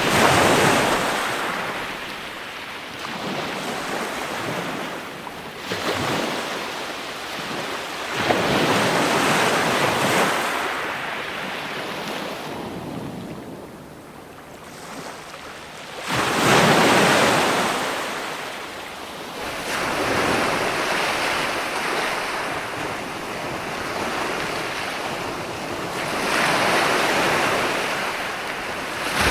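Ocean surf: waves breaking and washing in, the rush of water rising and falling in slow swells every few seconds, the loudest just past halfway.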